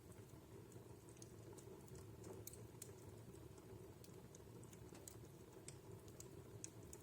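Wood fire in a home fireplace crackling faintly: many small, irregular snaps and pops over a steady low rumble of the burning logs.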